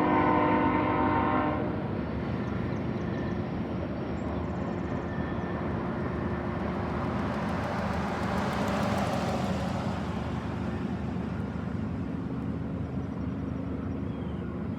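Freight train's air horn sounding a chord that cuts off about two seconds in, followed by the steady rumble of the train rolling past, swelling for a few seconds midway.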